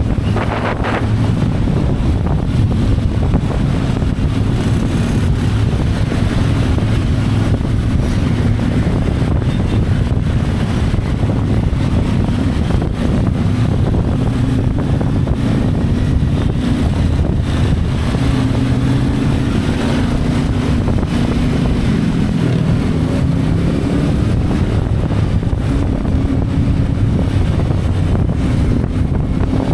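CFMoto 450MT's parallel-twin engine running as the motorcycle rides along, its pitch rising and falling several times with throttle and gear changes, with wind rushing over the microphone.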